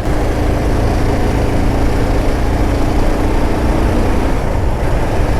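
Motorcycle being ridden on a road: a steady engine hum under a loud, even rush of wind and road noise.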